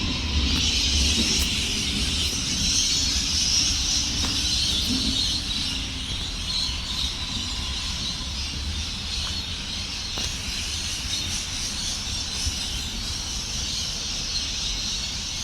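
Electric passenger train moving through the station. Its low rumble and motor hum fade away over the first five or six seconds, under a steady high hiss.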